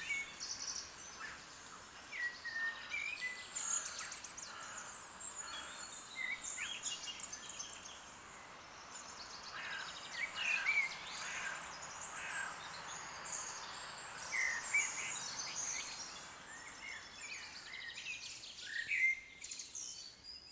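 Several songbirds chirping and singing, with short high chirps and trills scattered throughout over a faint steady background hiss.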